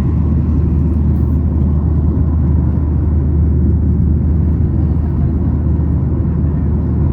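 Steady low rumble of a Boeing 737-900ER's jet engines and airflow heard from inside the passenger cabin.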